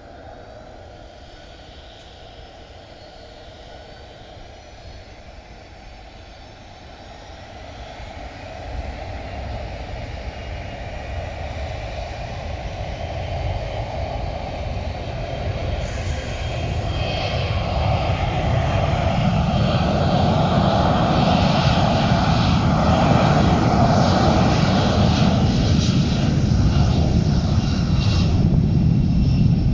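Jet airliner's engines growing steadily louder as the plane draws near, loudest over the last third.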